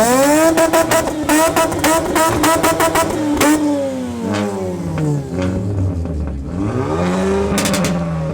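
Mazda RX-8's two-rotor rotary engine being revved hard. It shoots up in pitch and is held high with a rapid run of crackles for about three seconds, then drops back. It is blipped up and down twice more near the end.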